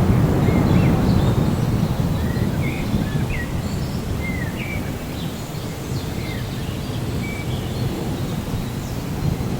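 Low rolling thunder over steady rain, with birds chirping short rising and falling calls above it. The rumble is strongest in the first couple of seconds, then eases.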